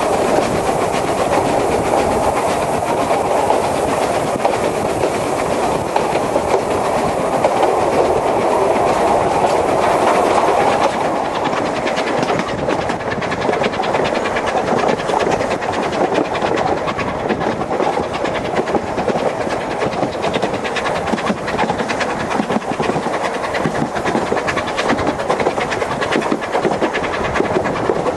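Isle of Man Steam Railway narrow-gauge steam train running, wheels clicking steadily over the rail joints over a constant rumble of the carriages. A high hiss fades away about eleven seconds in.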